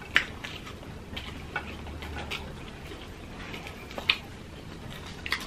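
Close-miked eating sounds: chewing and lip smacks, heard as a scatter of short wet clicks about a second apart, the loudest just after the start.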